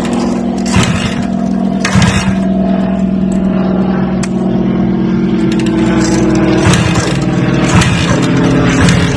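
Motor running at a fairly steady speed, with its hum holding one pitch throughout. A few sharp knocks or clatters sound over it.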